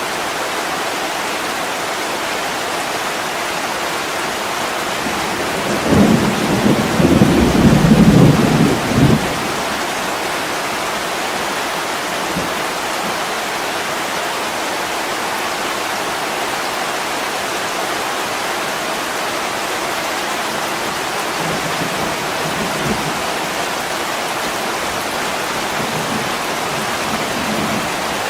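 Steady heavy rain pouring on a window, with a low rumble of thunder starting about six seconds in and lasting about three seconds, and fainter rumbles near the end.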